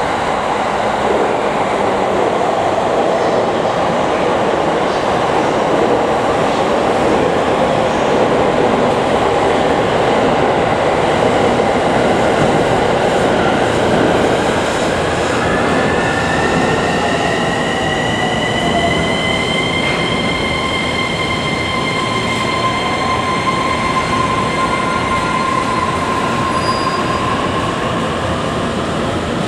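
An E231 series electric commuter train runs into the station and brakes, with steady wheel-on-rail rumble throughout. About halfway through, high whining tones from its electric traction equipment rise in pitch, then hold steady as it slows toward a stop.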